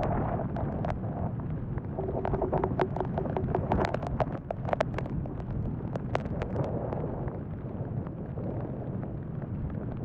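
Blizzard wind buffeting the microphone with a steady low rumble. Over it, tunnel-tent nylon crackles and snaps in a run of sharp clicks as the shell flaps and is handled, thickest between about one and seven seconds in.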